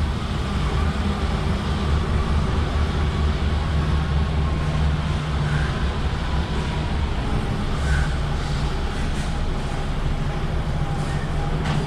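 Steady low engine rumble with a deep, even hum, the running engines on a ferry's vehicle deck as the ship docks.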